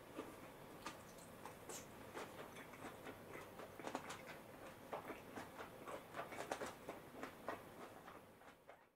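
Faint close-up eating sounds: a quick, irregular scatter of small wet clicks and smacks of chewing a mouthful of spaghetti and sausage, busiest in the second half and fading out near the end.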